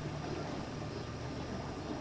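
Steady outdoor wind noise with a faint low hum from a distant motor that fades away at the start.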